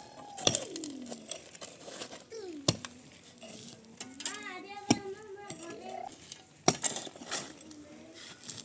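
Sharp clinks of hard objects, about four of them a couple of seconds apart, with a child's voice in between: a falling call near the start and a wavering one in the middle.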